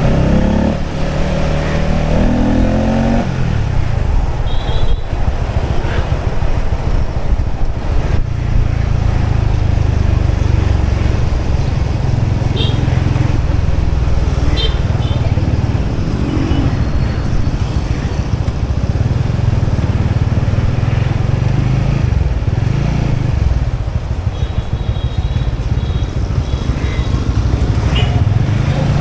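Motorbike engine running steadily while riding, a low rumble throughout; its pitch rises over the first few seconds as it speeds up.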